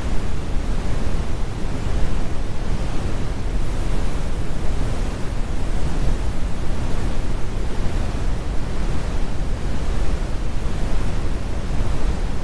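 Steady, deep brown noise: an even low rumble with the high frequencies rolled off, unchanging throughout.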